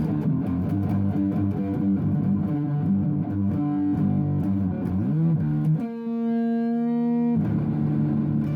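Music: guitar playing a busy instrumental passage between sung lines. Around five seconds in, a note bends up and back down, then one note is held for about a second and a half before the playing picks up again.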